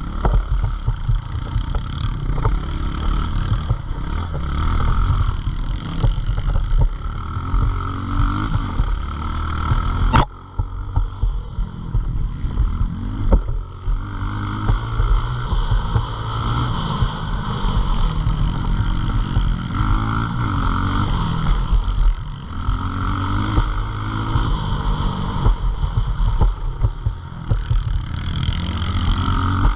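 Pit bike engine running hard and revving up repeatedly, its pitch climbing several times as it accelerates, over a heavy steady rumble. A single sharp click comes about ten seconds in.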